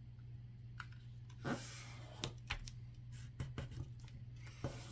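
A sheet of paper rustling and rubbing as it is folded and creased by hand, with a few soft taps and a short swish about a second and a half in, over a low steady hum.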